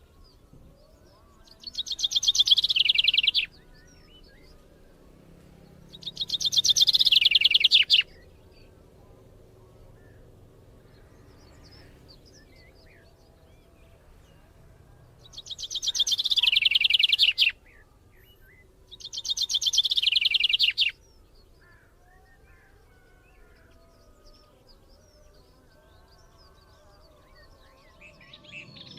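A bird singing four loud, rapid trills of about two seconds each, the first two about four seconds apart and the last two about three seconds apart, each dropping in pitch at the end. Other birds call faintly in the background.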